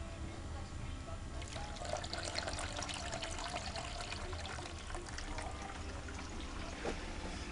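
Wood-fired, water-cooled home-made Stirling engine rig running: a steady low rumble, with dense crackling or trickling from about a second and a half in.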